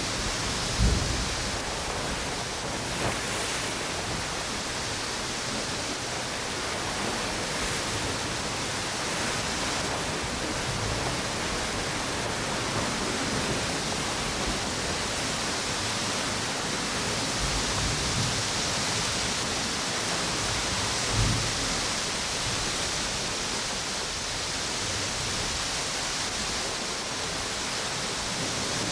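Steady hiss of strong wind and ocean waves on a beach. A few brief low thumps stand out, the loudest about a second in.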